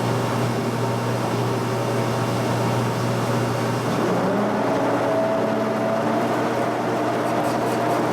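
A machine-shop power tool's electric motor running steadily with a low hum and a few steady tones. One tone glides up about four seconds in, as the running speed changes.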